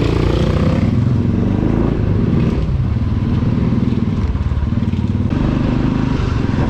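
Motorcycle engine running steadily, its pitch wavering slightly up and down.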